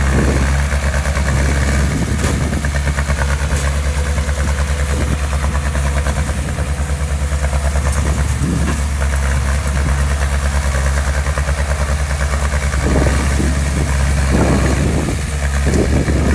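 Diesel engine of heavy construction machinery running steadily, with a few brief rises in the engine note in the last few seconds.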